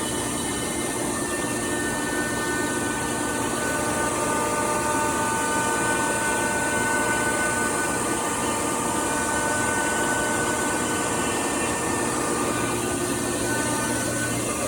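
Camaster CNC router running steadily, a continuous mechanical noise with several steady high-pitched tones over it.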